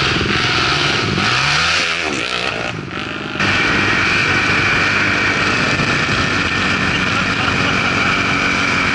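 Dirt bike engines running, their pitch rising and falling over the first couple of seconds; about three and a half seconds in the sound changes suddenly to a steadier engine drone.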